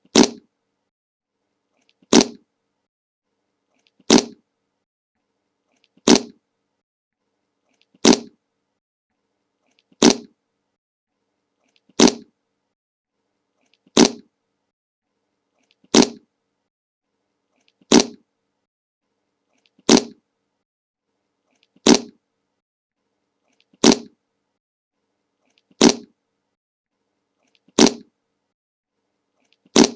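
The 'Le Monke' meme fart sound effect, one short fart with a sharp start that quickly trails off, repeated identically every two seconds with silence between, fifteen times.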